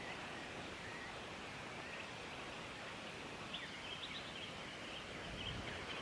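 Faint short high bird chirps, a few near the start and a quick cluster in the second half, over a steady outdoor hiss.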